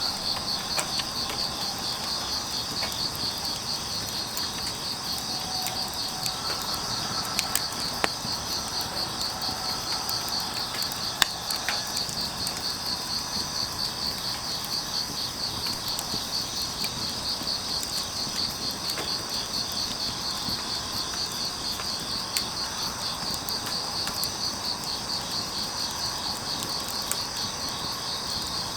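Field crickets chirping steadily in a fast pulsing rhythm, with a few sharp pops from burning firewood crackling.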